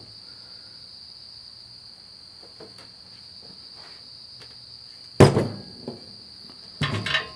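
A steady, high-pitched insect drone runs throughout. About five seconds in comes one sharp metallic clank, followed near the end by a short cluster of lighter clinks as steel bolts and parts are handled.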